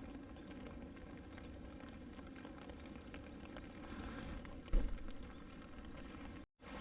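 Small mountain stream babbling steadily, with scattered small clicks and one dull thump nearly five seconds in. The sound cuts out for a moment just before the end.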